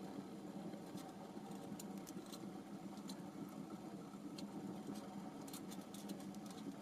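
Faint, irregular crackles and ticks from a small wood-burning tent stove's fire, over a low steady hum.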